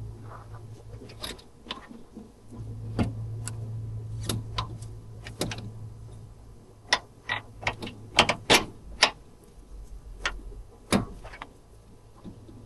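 Irregular sharp metallic clicks and taps of hand tools and fasteners being handled on car parts, most frequent in the second half, over a steady low hum.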